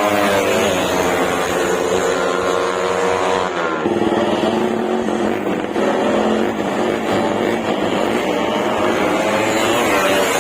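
Suzuki Raider 150's single-cylinder engine running hard after its refresh, its pitch climbing and falling as it revs. The pitch drops suddenly about three and a half seconds in, like a gear change, then builds again.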